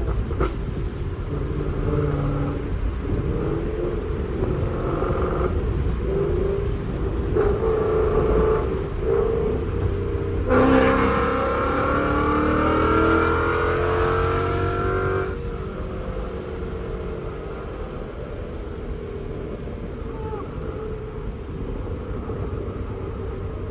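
Ford Mustang GT's 5.0 V8, fitted with long-tube headers and a Corsa Xtreme exhaust, cruising with the throttle varying. About ten seconds in it goes to hard acceleration, and the exhaust note climbs steadily in pitch for about five seconds, held in one gear without a shift. It then eases back to a steady, quieter cruise.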